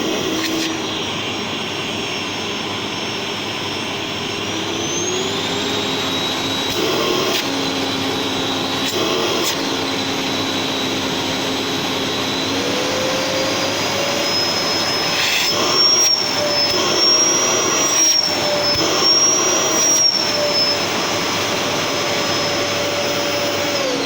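Gerer8 Power MAX 2000W vacuum cleaner motor running loud, its whine stepping up in pitch twice as it is turned up to high power. A hand held over the suction draws hard enough to grip it, and the motor pitch wavers. Near the end the motor is switched off and starts to wind down.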